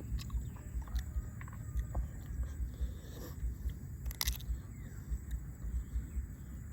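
A person chewing food close to the microphone, with a steady rhythm of soft low chomps and small wet clicks. A sharp click comes about four seconds in.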